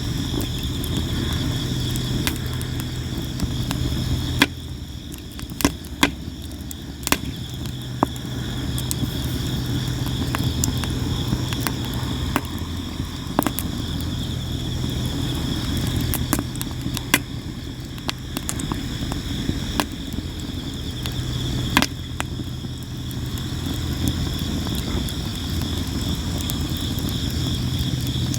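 Sawara (Japanese cypress) firewood burning, with frequent sharp pops and crackles over the steady chirping of insects.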